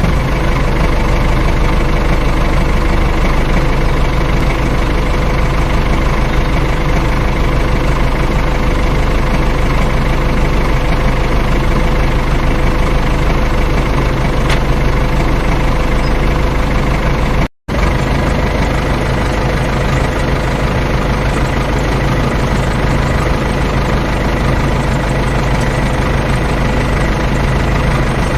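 Tractor engine running steadily with a deep rumble and a constant hum. The sound breaks off for an instant about two-thirds of the way through, then carries on unchanged.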